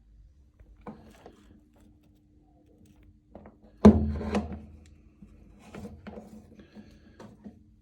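Scattered knocks and scrapes of parts and tools being handled at an opened combi boiler, with one loud clunk about four seconds in.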